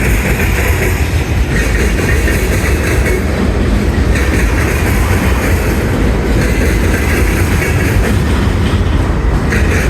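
Freight train backing slowly: a steady, loud low rumble of the locomotive and rolling cars, with a higher rushing noise that swells and fades every second or two.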